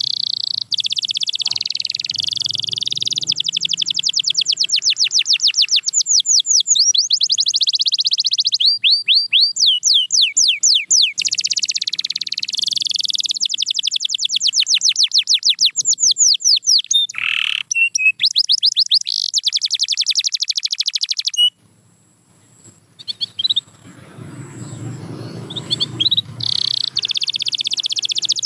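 Domestic canary singing a long song of rapid trills and fast repeated rolling phrases. The song breaks off about three-quarters of the way through for a few seconds, during which a low rumble is heard, and starts again near the end.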